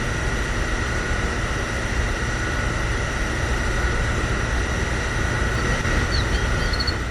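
A small DC motor running steadily, with a high, even whine over a low rumble.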